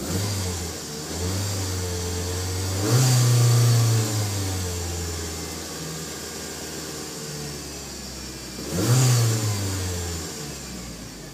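2010 Ford Transit Connect's 2.0-litre DOHC four-cylinder engine revved twice, about six seconds apart, rising in pitch each time and dropping back to a steady idle between.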